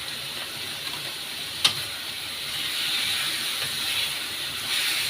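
Chicken pieces sizzling steadily in a frying pan, with a single sharp tap about one and a half seconds in; the sizzle grows a little louder about halfway through.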